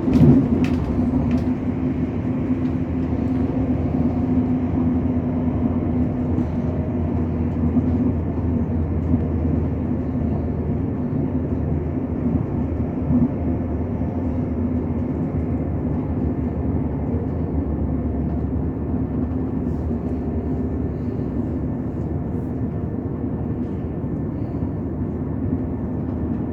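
Passenger train running on the line, heard on board: a steady rumble of wheels on rail with a constant hum from the traction, and a couple of sharp knocks right at the start.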